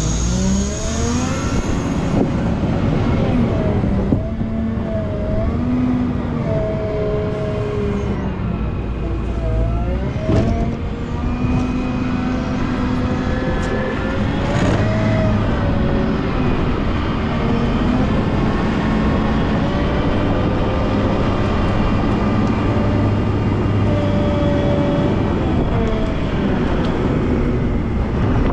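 Volvo L90H wheel loader's diesel engine running under load while it plows snow, its pitch repeatedly rising and falling as the revs change.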